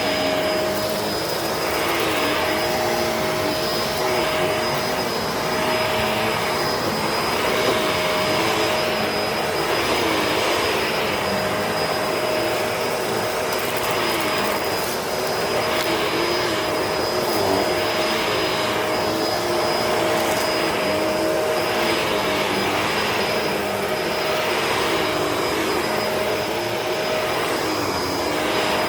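Upright vacuum cleaner running over a dirty carpet, with a steady motor whine. It is pushed back and forth, and its sound swells with each stroke about every two seconds.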